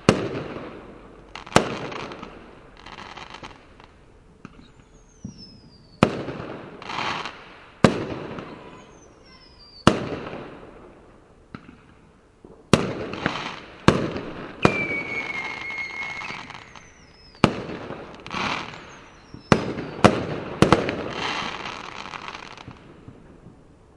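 Fireworks display: about ten sharp bangs spread irregularly, each trailing off in a long crackling decay, with several short falling whistles and one longer held whistle midway. The bursts die away near the end.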